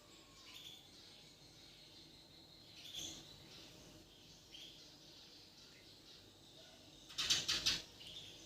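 White-rumped shama (murai batu) giving a few short, thin chirps spaced a second or more apart, then a brief loud flurry of several sharp strokes about seven seconds in.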